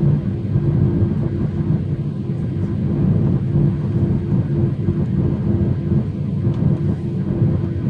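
Jet airliner engine noise: a steady, loud low rumble with a constant hum over it.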